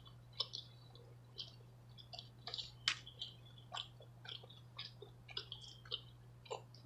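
Close-miked chewing of tender steak tips and loaded baked potato: soft, irregular wet mouth clicks and smacks, several a second.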